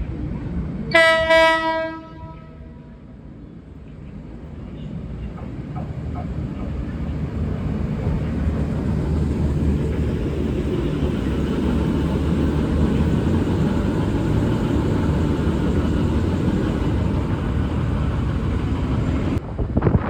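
A V/Line VLocity diesel multiple unit sounds its horn in one short low-note blast about a second in. The train's rumble then builds and holds steady and loud as the two coupled sets run through the station, and it cuts off abruptly near the end.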